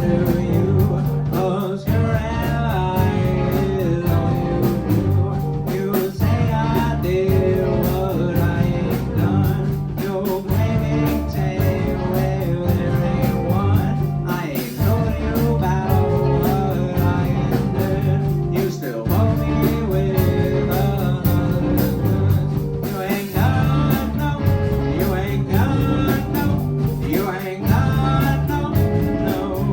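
Live band playing a song: electric guitar and steady bass notes with a sung vocal over them, loud and continuous.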